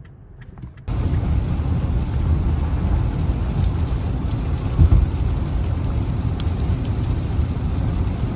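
Steady rain with a deep rumble of thunder underneath, swelling briefly a little before the halfway point. It starts suddenly about a second in and cuts off suddenly at the end.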